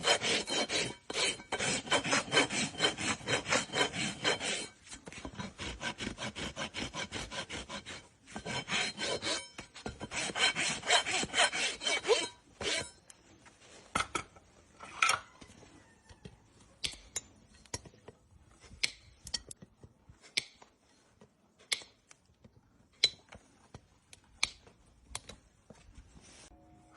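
Hoof rasp filing a horse's hoof in quick, rhythmic back-and-forth strokes, in three runs with short breaks, stopping about twelve seconds in. After that only scattered single clicks and taps.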